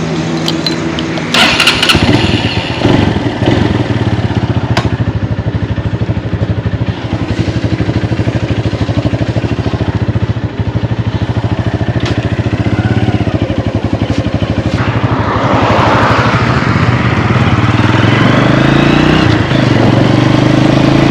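Small motorbike engine running, with a cluster of sharp clicks about a second and a half in; near the end the engine note rises as the bike speeds up.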